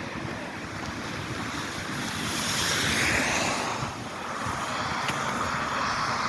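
Wet hiss of tyres on a rain-soaked road, swelling twice as vehicles pass, over a steady background of rain.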